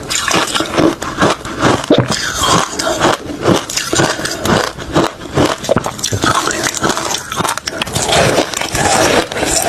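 Close-up crunching of refrozen crushed ice and shaved ice being bitten and chewed, a few loud crunches a second, turning into denser grinding near the end.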